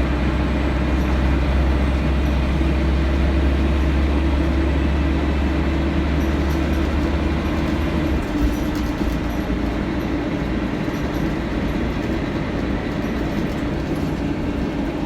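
Inside a Scania L113CRL bus on the move: its diesel engine drones low and steady under road and body noise. The deep drone falls away a little over halfway through.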